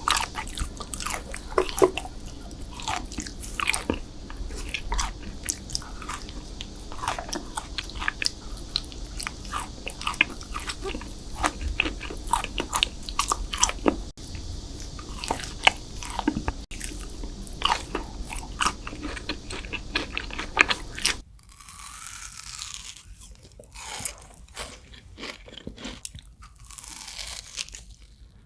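Close-miked crunching and chewing of sweets, with dense sharp crackles of each bite and chew. About three-quarters of the way through the sound switches abruptly to quieter, softer chewing.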